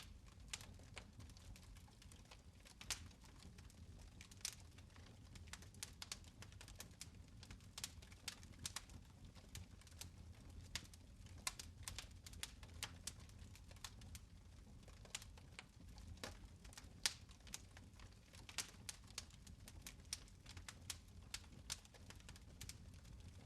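Fire in a fireplace crackling, with many small irregular pops and snaps, several a second, over a low steady rumble.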